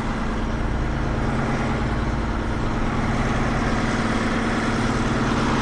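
Heavy-haul semi truck's diesel engine running steadily while the rig rolls slowly, a constant low drone with a strong steady hum.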